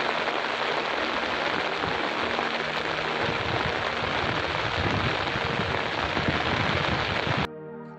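Heavy rain falling steadily, a dense even hiss that stops abruptly about seven and a half seconds in.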